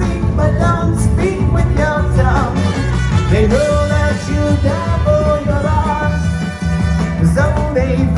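Loud rock band music with a steady beat and heavy bass, and a melody line weaving over it.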